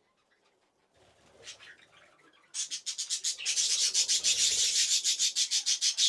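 Newly hatched budgerigar chick peeping in the nest box, calling to its mother: a fast, even run of raspy peeps, about six or seven a second, starting about two and a half seconds in. The sound is the sign that a chick has hatched.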